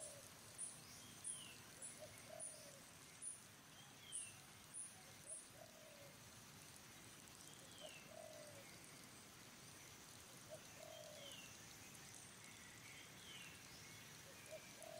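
Faint bird calls: a short low note repeated every second or two, a thin falling whistle every few seconds, and a quick run of high short chirps, about two a second, through the first five seconds.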